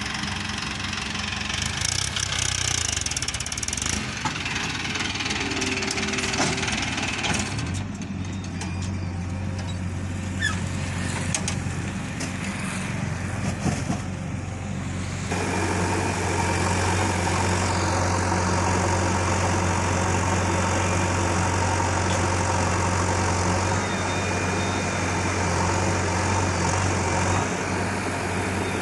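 Heavy diesel machinery at a mud-loading site running steadily, the engine note strengthening about 8 seconds in and working louder from about 15 seconds on.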